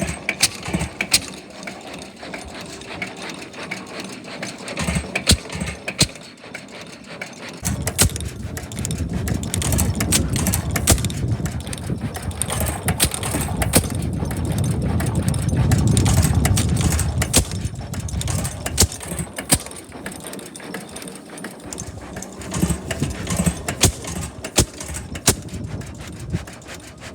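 6 HP White gasoline engine running, with many irregular sharp clicks. A low rumble swells up about a quarter of the way in and dies away again about three quarters through.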